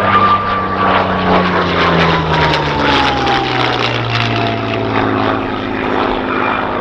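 Rolls-Royce Merlin piston engine of a WWII fighter flying past at display speed, its pitch dropping steadily as the aircraft goes by and away.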